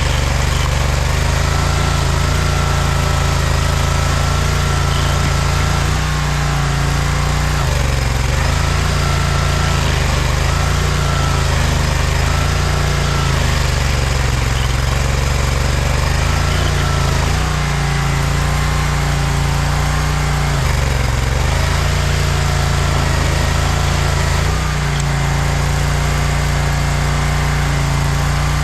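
Small gas engine of a stump grinder running hard and steadily. Its pitch sags and recovers several times as it takes load grinding out a stump.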